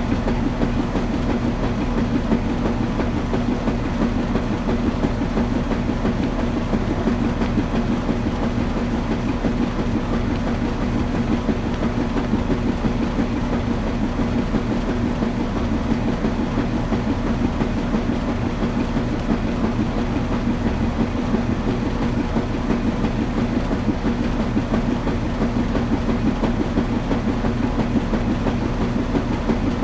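Washing machine running continuously: a steady low hum with a fast, even rattle over it.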